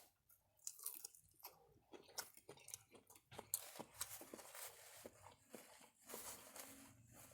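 Person chewing food close to the microphone, faint and irregular, with small crunches and wet mouth clicks.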